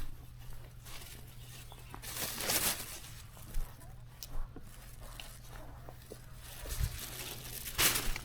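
Rustling and tearing of handled material, two brief swishes with a few sharp snaps in between.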